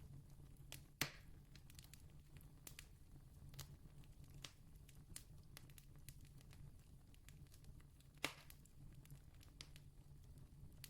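Faint campfire crackling: scattered small wood pops and snaps, with two louder pops about a second in and again about eight seconds in, over a low steady hum.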